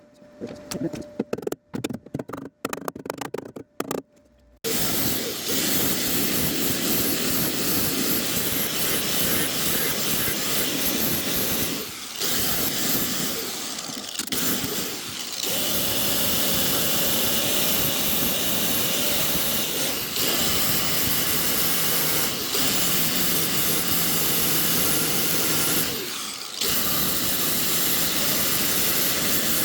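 MIG welder arc crackling and hissing on the MX-5's inner sill steel, in a few short bursts of spatter for the first few seconds, then long continuous runs with brief pauses between beads.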